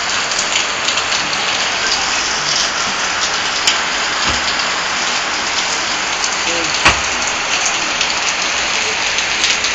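Heavy rain falling steadily, with scattered sharp clicks of drops striking a nearby surface; one louder knock about 7 seconds in.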